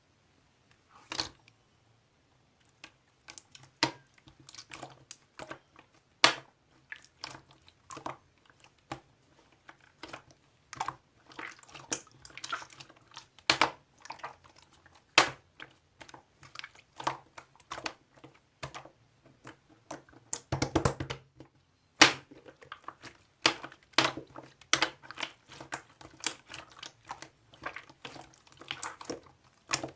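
Slime being squeezed and pressed by hand, making irregular sticky clicks and pops, with a denser run of pops about two-thirds of the way through.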